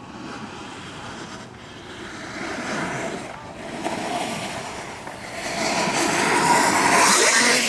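Rushing of air on the microphone and a snowboard sliding on the slope during a ride, building louder over the last few seconds.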